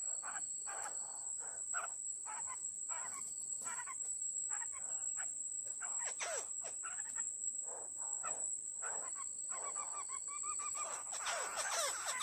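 Birds calling in many short chirps and whistled notes, busier near the end, over a steady high-pitched insect drone.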